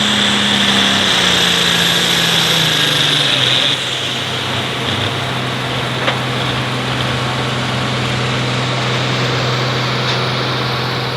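Hot farm pulling tractor's engine running hard under load, its pitch dropping in steps as it lugs down against the sled. About four seconds in a high whine cuts off and the engine goes quieter, running on at a steady lower pitch as the driver backs off and abandons the run.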